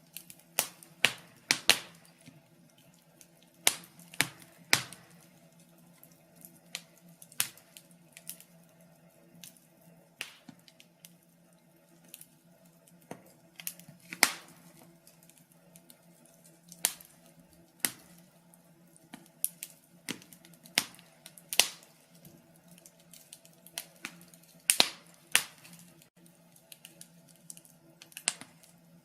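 Wood fire in a fireplace crackling: irregular sharp snaps and pops, a few of them louder, over a faint steady low hum.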